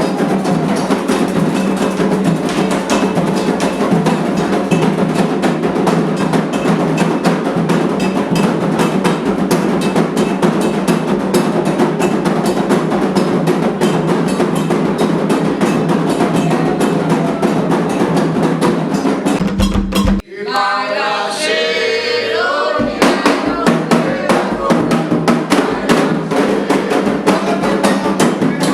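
Candomblé ritual drumming: atabaque hand drums and percussion playing a fast, steady rhythm. The drums break off about 20 s in, leaving voices for a couple of seconds, then start again.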